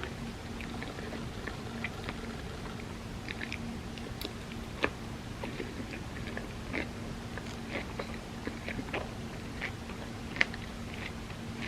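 Close-miked chewing and wet mouth clicks of someone eating soft layered crepe cake, with a couple of sharper clicks about five and ten seconds in. A steady low hum runs underneath.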